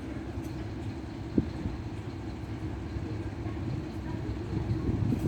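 British Rail Class 37 diesel locomotive 37109, its English Electric V12 engine running with a steady low rumble as it draws into the station. A sharp knock comes about a second and a half in, with more knocks near the end.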